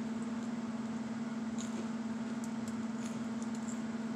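A steady low hum, with a few faint crisp crunches of someone chewing toasted bread with butter and sugar, scattered through the middle.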